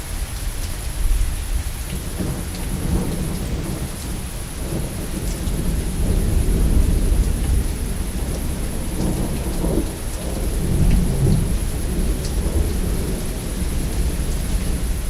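Steady rain hissing, with scattered drop ticks, under thunder that rumbles low and rolls in long swells, building and fading several times.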